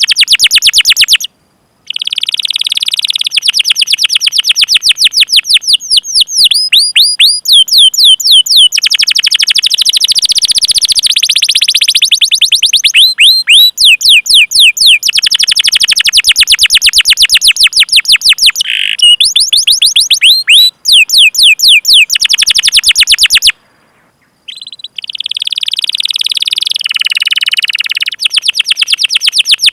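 Domestic canary singing long rolling trills: runs of rapid, high repeated chirps, each a quick downward sweep, broken by a few brief pauses.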